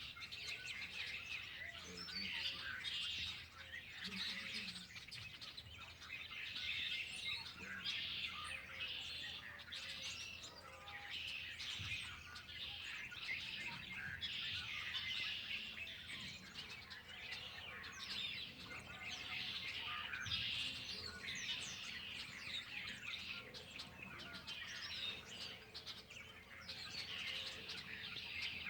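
A chorus of many songbirds chirping and singing at once, with dense overlapping calls and trills.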